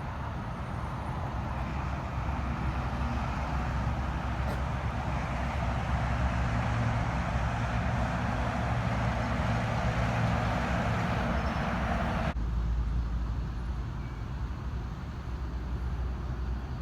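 Steady outdoor rumble with a hiss, swelling over the first several seconds. About twelve seconds in it cuts off abruptly to a lower, duller rumble.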